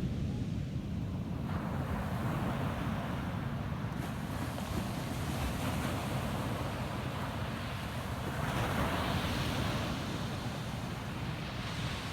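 Ocean waves breaking on a beach: a steady low rumble of surf, with one wash of breaking water coming in about a second and a half in and a louder one around the two-thirds mark, and wind on the microphone.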